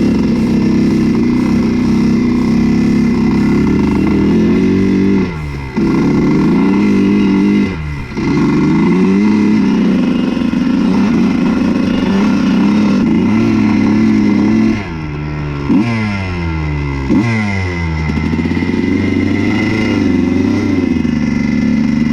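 Honda CR125 two-stroke dirt bike engine being ridden hard: it revs high, with sharp drops in revs about five seconds in and again near eight seconds, then a run of quick drops and climbs in revs about two-thirds of the way through.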